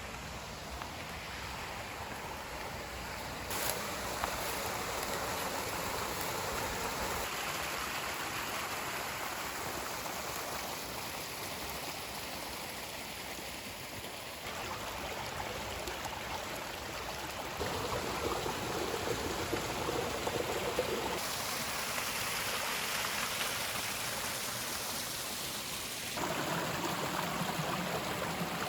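Small river running over rocks: a steady rushing and babbling of water, its tone and loudness shifting abruptly a few times.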